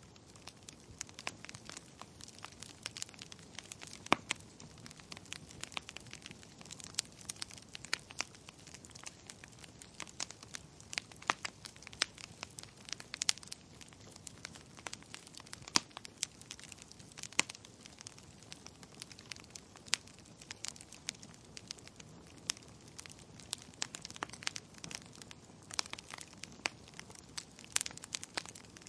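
Wood fire crackling in a fireplace: irregular sharp pops and snaps, several a second, over a steady low hiss.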